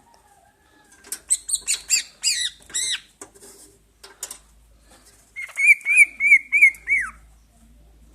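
A pet songbird singing. About a second in comes a burst of quick, arching chirps. Near the end it gives a run of about six repeated whistled notes, the last one falling away.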